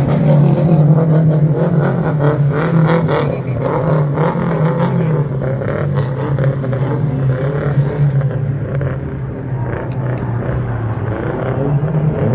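Loud car engine running, its pitch wavering slightly up and down, with some clicks and ticks in the first few seconds.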